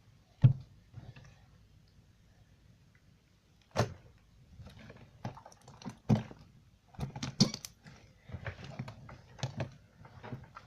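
Hands poking and squishing a foam-bead 'sand slime' on a desk: irregular sticky pops, crackles and taps, with a sharp knock about half a second in and several louder pops later on.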